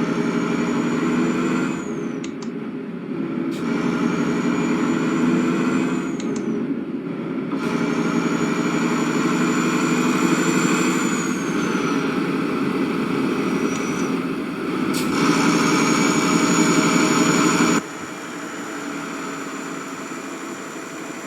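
An engine running steadily with a thin high whine above it. The level and tone shift abruptly several times.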